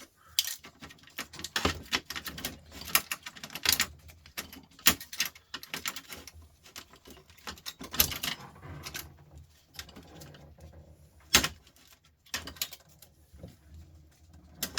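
Irregular clicks, knocks and clatter of small metal and plastic parts being handled while a record player is taken apart to get at its synchronous turntable motor, with a few sharper knocks among them.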